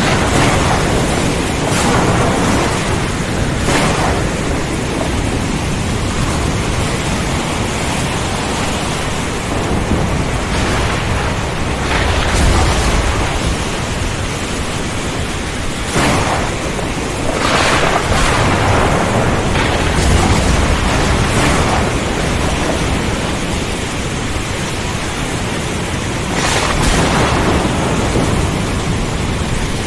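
Heavy rain pouring steadily, with thunder rumbling several times, the deepest rolls about twelve and twenty seconds in.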